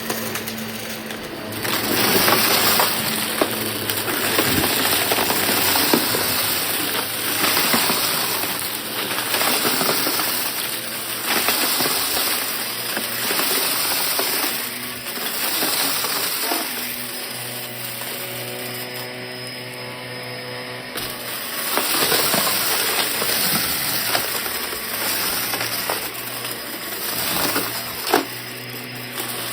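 Vacuum cleaner running steadily, its noise swelling and fading about once a second as it is pushed back and forth over a rug; a steady motor hum shows through for a few seconds past the middle.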